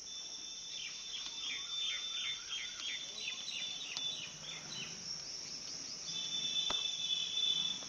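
Crickets chirring steadily, with a quick series of chirping calls over the first few seconds, a held high whistling tone near the end, and two sharp light knocks.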